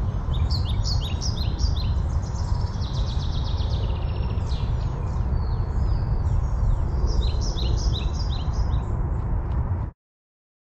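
Small birds chirping in quick, repeated calls over a loud, steady low rumble; all sound cuts off abruptly near the end.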